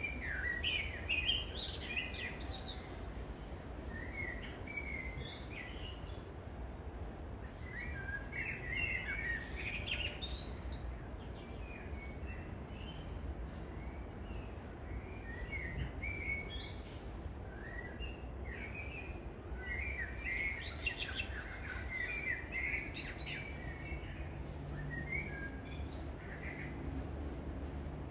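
Birds chirping and calling in repeated bouts of short, quick notes, over a low steady rumble.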